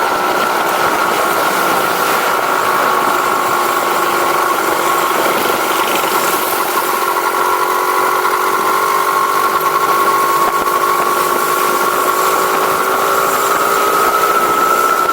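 Engine running steadily through a stock exhaust, its note sagging a little in pitch midway and rising again near the end.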